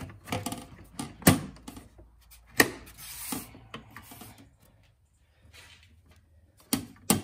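Hard plastic engine-bay covers being handled and fitted back in place: scraping and rustling broken by sharp clicks and knocks, the loudest a little over a second in and again at about two and a half seconds, with two more clicks near the end.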